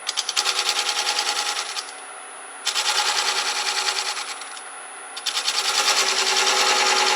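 A turning tool cutting a dovetail tenon into a spinning spalted-oak bowl blank on a wood lathe. It comes in three bursts of rapid rattling chatter, each lasting one to three seconds, with the last one the longest. A steady high whine runs underneath.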